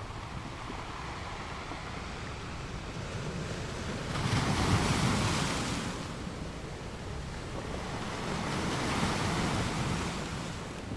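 Sea waves breaking on a shore: a steady wash of surf with two waves swelling and breaking, the first about four seconds in and the louder, the second near the end.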